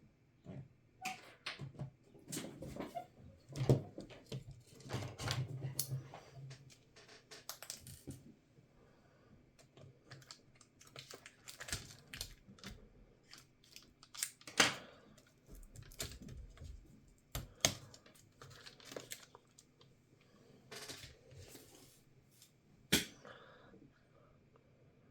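Irregular clicks, taps and short scrapes from small tools and parts being handled while taking apart an HP EliteBook 1040 G4 laptop, with a few sharper clicks standing out among them.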